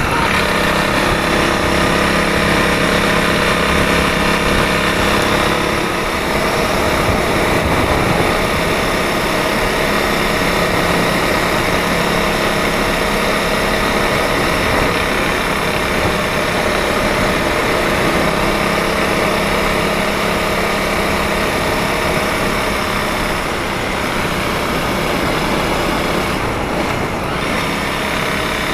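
Honda CRF300L's single-cylinder four-stroke engine and exhaust running at a steady engine speed.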